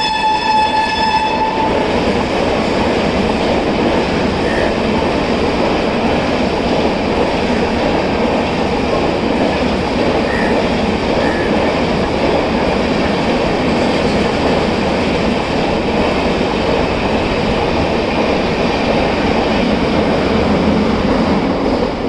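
Shrill horn of a WAP-7 electric locomotive that cuts off about a second and a half in, then the steady loud noise of a Rajdhani express's coaches running past at speed through the station without stopping.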